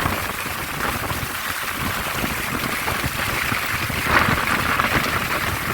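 Storm noise: gusting strong wind rumbling on the microphone over a steady hiss of rain and rough water, swelling a little near the end.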